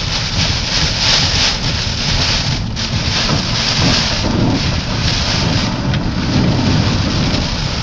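Heavy rain pounding on a moving car, with a steady hiss and low rumble of tyres driving through standing floodwater.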